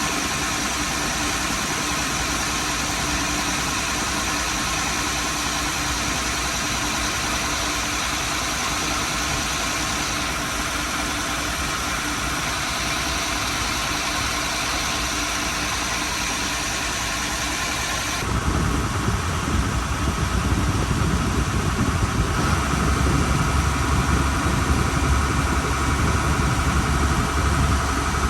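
Boat motor running steadily; about 18 seconds in its sound gets louder and deeper.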